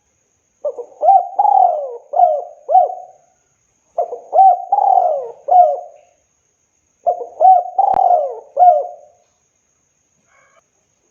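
Spotted dove cooing: three phrases of about five notes each, a second or so apart.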